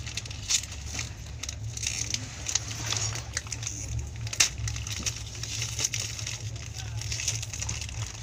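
Steady low rumble of an express train coach rolling slowly, heard from inside the coach, with irregular clicks and crackles over it and one sharper click about halfway through.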